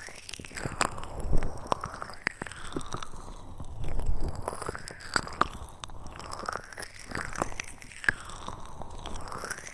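ASMR trigger sounds close to the microphone: scattered crisp clicks and crackles over a slow swishing sweep that rises and falls every couple of seconds.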